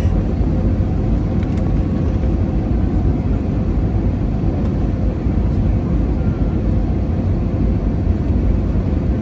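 Steady low roar of airliner cabin noise on the approach to landing: engine and airflow noise with a faint steady hum.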